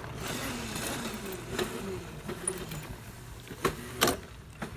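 Steady low vehicle noise, with two sharp clicks near the end.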